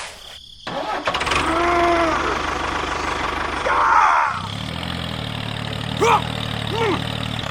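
A small engine cranking with a fast ticking churn, catching a little over four seconds in and settling into a steady idle. Short vocal exclamations are heard over it.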